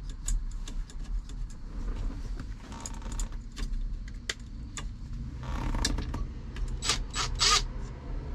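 Small metal clicks and clinks of screws and hand tools while fitting a steering wheel to its hub, with a louder burst of rattling clinks near the end, over a low steady hum.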